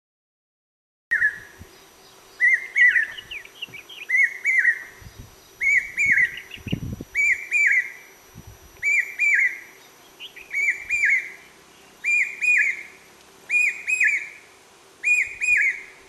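A bird calling over and over, a short doubled whistled note repeated about every second and a half, starting about a second in. A single low thump about halfway through, over a faint steady hum.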